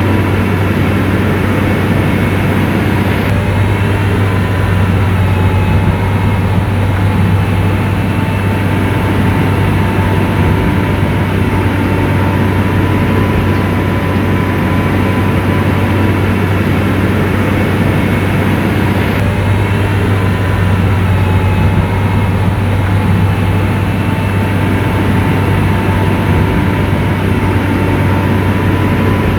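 Motor grader's diesel engine running steadily under load, a deep, even hum with a thin steady whine above it.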